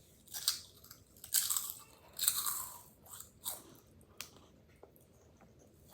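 Crunchy snack being bitten and chewed close to the microphone: a run of loud, crisp crunches that thin out to faint small clicks after about four seconds.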